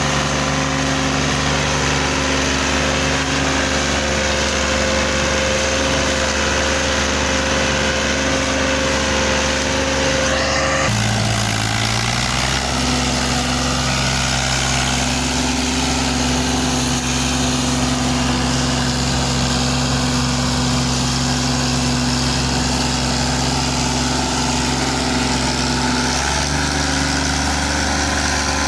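Fiat 480 tractor's three-cylinder diesel engine running steadily under load. About a third of the way in the engine speed drops and then holds steady at the lower pitch.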